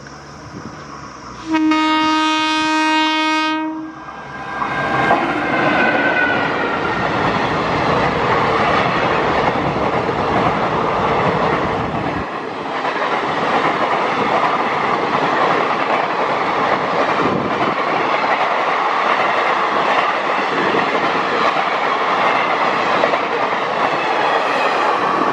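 Electric locomotive of an Indian Railways express sounding one long, steady horn blast about two seconds in, then the train's passenger coaches passing close by at speed with a loud, continuous rolling rush of wheels on rail.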